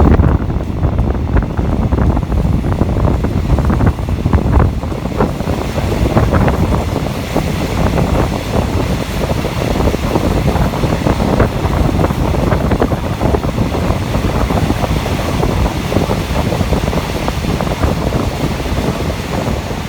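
Passenger train running along the track, heard from on board, with wind buffeting the microphone in a steady loud rush.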